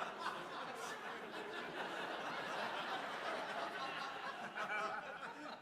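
Theatre audience laughing for several seconds, then dying away at the end.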